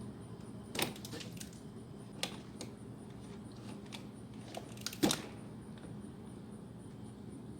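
Hand tools and small metal parts clicking and clinking as they are handled, a scattering of sharp clicks with the loudest a little after five seconds in, over a low steady hum.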